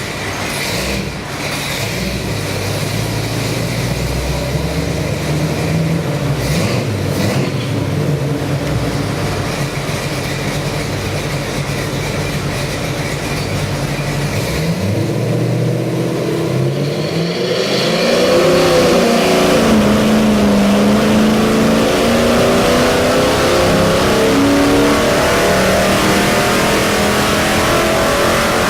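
Chevy 350 small-block V8 crate engine with a roller cam and Edelbrock carburetor running on an engine dyno. It runs at a lower speed at first, then about two-thirds of the way through it revs up and the revs keep climbing steadily, as in a dyno pull.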